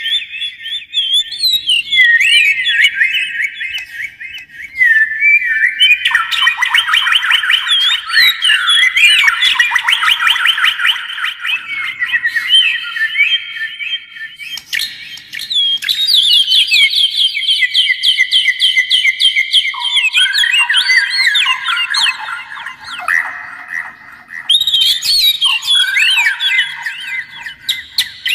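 Oriental magpie-robin and white-rumped shama birdsong: a continuous, rapid run of varied whistles, trills and chattering phrases, with overlapping lines that change pitch every fraction of a second.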